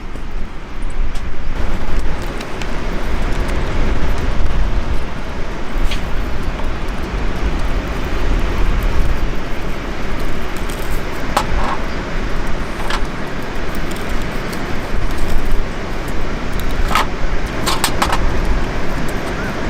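Steady rushing outdoor noise with a heavy low rumble, like wind buffeting the microphone, broken by a few sharp clicks or cracks, two of them close together near the end.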